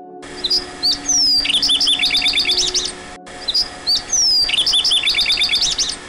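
Songbird singing: a falling whistle and then a quick run of repeated notes, the same phrase twice, over faint steady background music.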